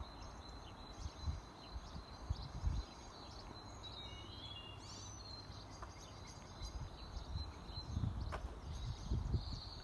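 Outdoor ambience of small birds chirping, with a quick run of chirps about four to five seconds in, over irregular low rumbling bumps on the microphone.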